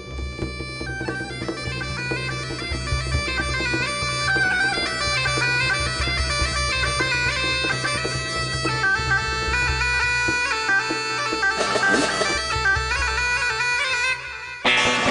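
Highland bagpipes playing a tune over their steady drones, breaking off briefly near the end.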